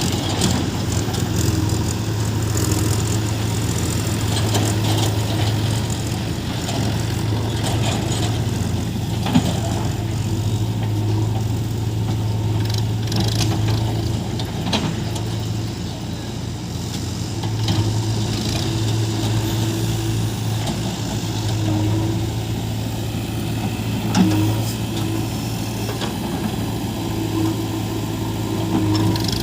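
Heavy diesel engines of a backhoe loader and tractor running steadily, with a couple of sharp knocks about nine seconds in and again near the end.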